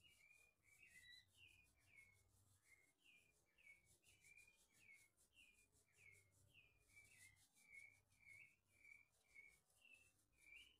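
Faint bird calling, a short falling note repeated about twice a second.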